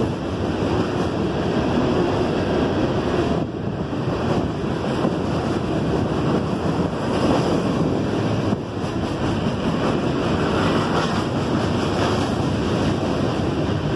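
Loaded freight cars rolling past on the rails: a steady rumble of steel wheels on track.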